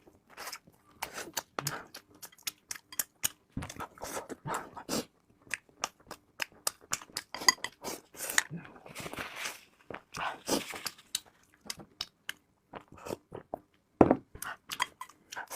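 Close-miked chewing and biting: a person eating with many irregular crisp, crackly clicks and smacks, and a louder crunch near the end.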